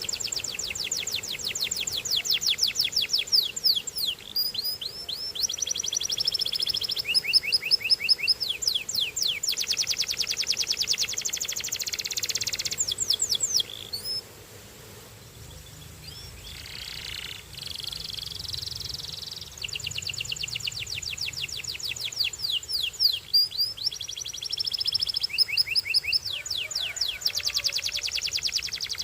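Belgian canary singing long, rapid trills of fast repeated high notes. It falls to a softer lull about halfway through, then resumes its trilling.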